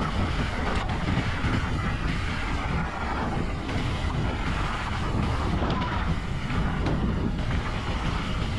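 Mountain bike riding fast over a dirt trail: a steady rumble of tyres and the bike rattling over the ground, with wind buffeting the microphone.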